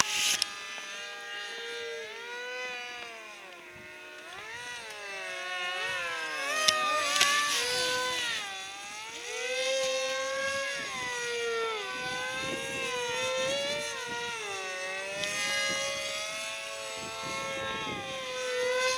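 Electric motors and propellers of several foam RC airplanes whining together, each pitch rising and falling as they change throttle and fly past. Two short sharp clicks about seven seconds in.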